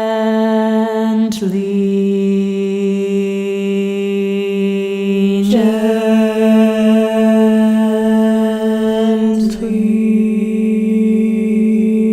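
Voices singing a cappella in long sustained held notes, like a drone or chant. The chord shifts abruptly three times, about every four seconds.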